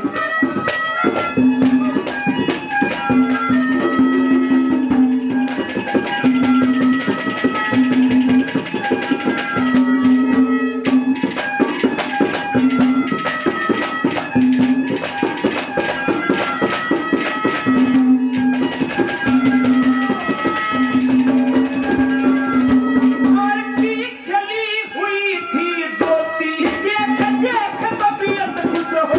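Instrumental Haryanvi folk music: hand drums beating a quick, busy rhythm under a melody instrument, with a held low note that comes and goes in phrases.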